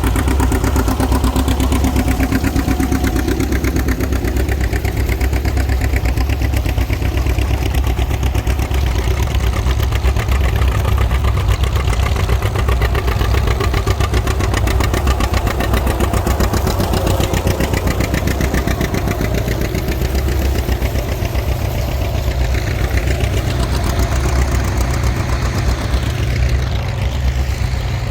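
Tractor engines running steadily, a loud low-pitched engine sound with fine, even firing pulses. Some engine pitches drift up and down in the second half.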